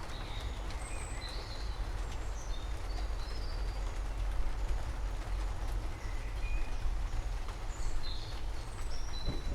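Steady rain hissing over a low, continuous rumble, with scattered short bird chirps above it.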